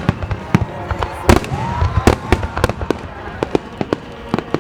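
Aerial fireworks shells bursting one after another in a rapid, irregular string of sharp bangs.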